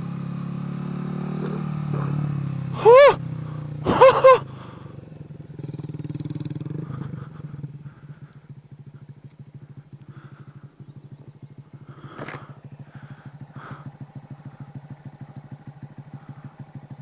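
Honda Grom's 125 cc single-cylinder engine running at low speed through tight circles, steady under light throttle at first, then dropping to a low, rapidly pulsing near-idle beat from about eight seconds in. Two short, very loud high-pitched sounds cut in about three and four seconds in.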